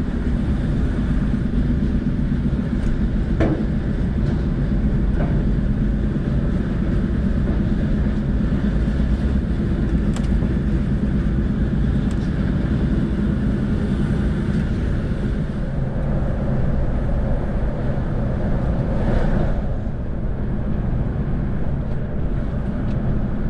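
Heavy lorry's diesel engine running steadily as the truck drives off the train, with a few light knocks.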